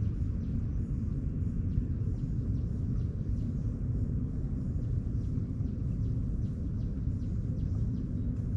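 Steady low outdoor rumble with faint, scattered high ticks over it.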